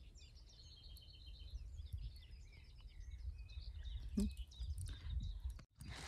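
Small birds chirping in a run of short, high notes over a low, steady rumble. The sound drops out for a moment near the end.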